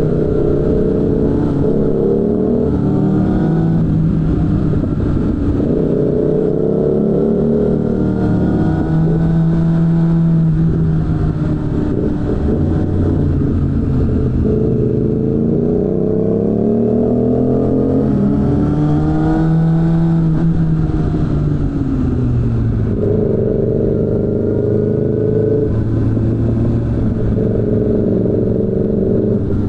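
Suzuki GSF600 Bandit's inline-four engine through a BOS aftermarket exhaust, ridden hard: the engine note climbs in pitch under throttle, then drops away as the throttle closes, several times over, with a few steadier stretches in between.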